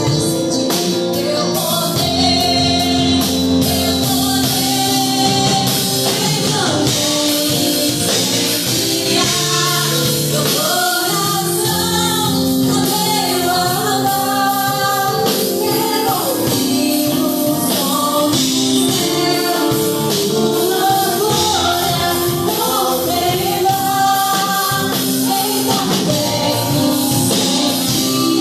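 Live gospel worship music: voices singing over a band with drums, playing steadily throughout.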